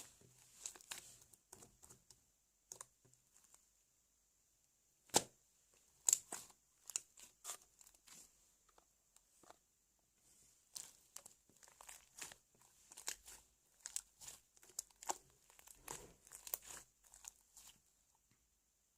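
Slime being squished and stretched by hand, giving irregular crackling clicks and small pops, with two short pauses.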